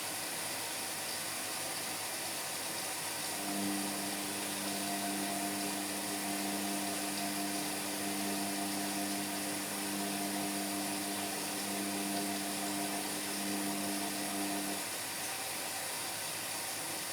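Indesit MyTime washing machine early in its Cotton 60 wash: a steady rushing hiss of water, with a low motor hum starting about three seconds in and stopping about two seconds before the end as the drum turns.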